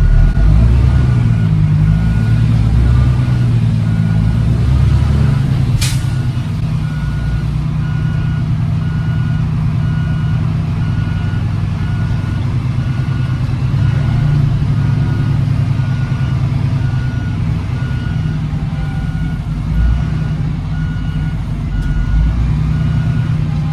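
Diesel engine of a Peterbilt semi running low and steady while reversing, with a backup alarm beeping about once a second. A single sharp click sounds about six seconds in.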